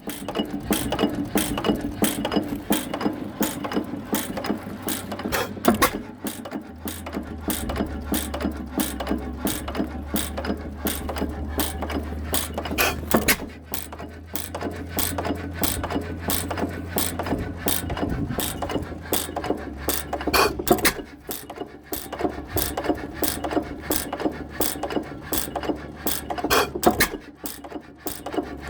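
Herkules 8 hp hit-and-miss kerosene engine running, its mechanism clicking in a rapid, even rhythm, with a heavier knock every several seconds and a low hum through the middle stretch.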